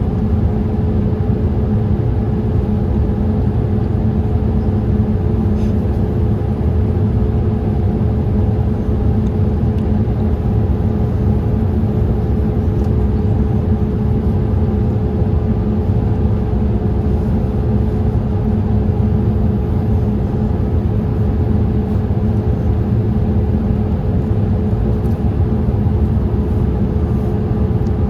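Steady in-flight cabin noise of a Boeing 787-8: an even rumble of engines and airflow with a faint steady hum.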